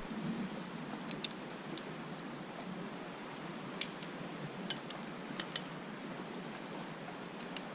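A faint steady hiss with a handful of short, sharp clinks, two of them close together a little past the middle.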